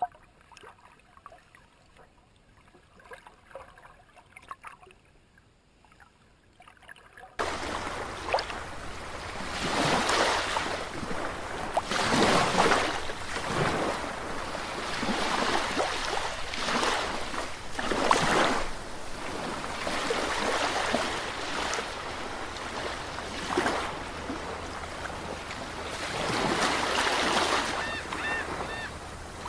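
Waves washing in repeated swells every couple of seconds over a steady low hum, starting abruptly about seven seconds in after faint trickling water. A few short high chirps near the end.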